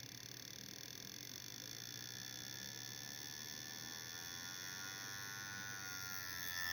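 A DC CDI ignition test rig running: the hard drive motor trigger and the coil's spark make a rapid electric buzz. The buzz rises slowly in pitch and grows a little louder as the speed is brought up.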